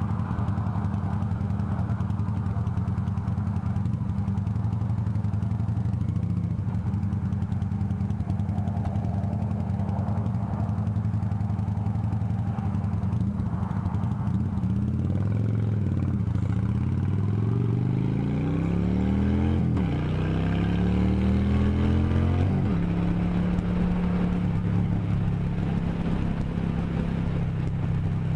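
Motorcycle engine running steadily, then accelerating through the gears from about halfway: the pitch climbs and drops back sharply at each of three upshifts, then holds steady at cruising speed.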